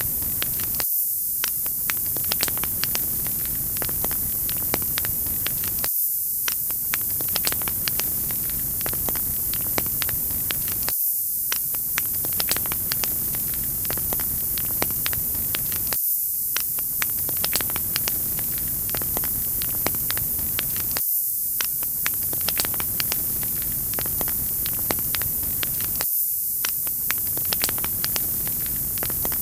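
Wood fire crackling: a steady hiss with many small sharp pops and snaps. The lower hiss drops out briefly every five seconds, as a looped recording does.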